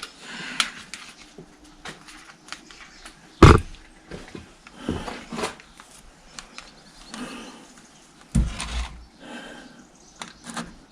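Scattered clicks and knocks of tools and gear being handled on a workshop bench. There are two heavier thumps, the louder one about three and a half seconds in and the other near the end.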